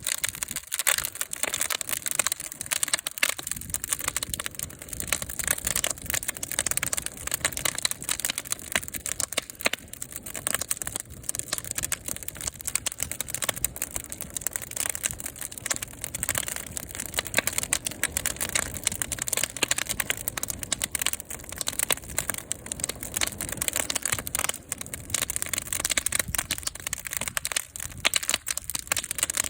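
Fire crackling: a dense, irregular stream of pops and snaps over a low rumble.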